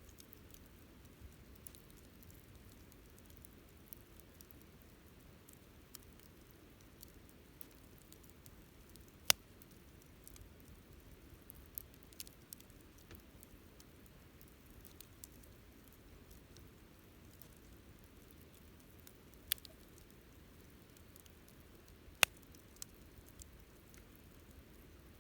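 Wood campfire crackling: a soft steady hiss with scattered small crackles and a few louder, sharp pops from the burning wood.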